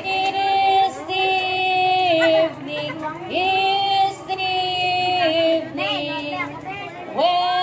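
Young voices singing a song in long held high notes, phrase by phrase, with short breaks between phrases.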